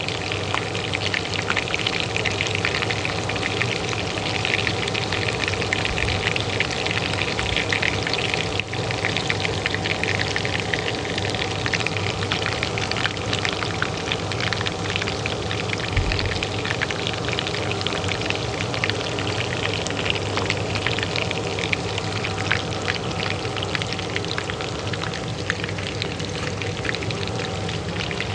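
Hot oil frying with a dense, continuous crackle, over the steady hum of a kitchen range hood fan.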